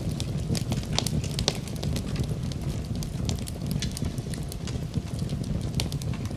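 Wood fire burning in a fireplace, with a steady low rumble of flame and many sharp, irregular crackles and pops from the burning wood.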